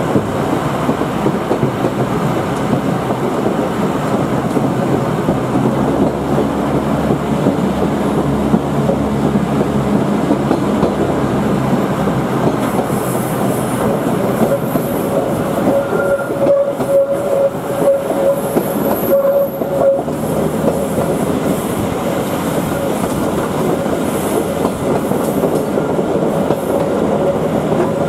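Queensland Rail 2000 class diesel rail motor running on the track, heard from an open carriage window, a steady rumble of wheels and engine. About halfway through a steady wheel squeal joins in as it takes the tight curves through the rock cutting, fades, and returns near the end.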